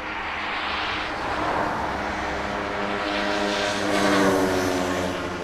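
A passing engine, growing louder to a peak about four seconds in and then fading, its pitch dropping slightly as it goes by.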